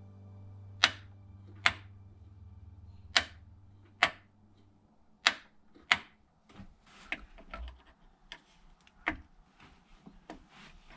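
A series of sharp clicks at irregular intervals, loud and spaced about a second apart at first, then softer and more scattered, over a low steady hum that stops about halfway through.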